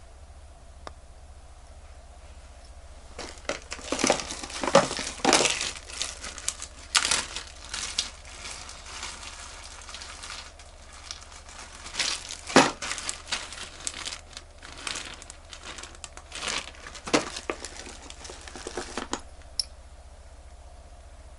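Crinkling and rustling of something handled close by, in irregular bursts that start about three seconds in and stop a couple of seconds before the end.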